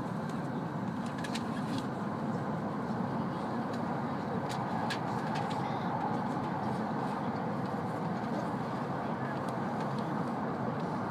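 Steady running noise of a W7 series Shinkansen heard from inside the passenger cabin, an even rumble of the train at speed. A few faint clicks come about a second in and again around five seconds in.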